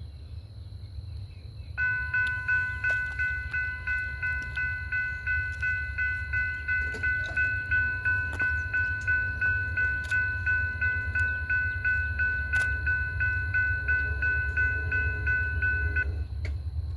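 Railroad warning bell ringing steadily at about two strikes a second, starting about two seconds in and stopping near the end, over a low steady rumble.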